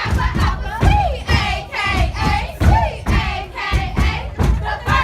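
A crowd shouting and singing along over a regular thumping beat.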